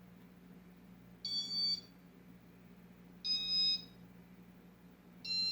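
Three electronic beeps, each about half a second long and about two seconds apart, from the Casablanca Panama ceiling fan's electronic control as it is stepped through its settings. A faint low steady hum lies underneath.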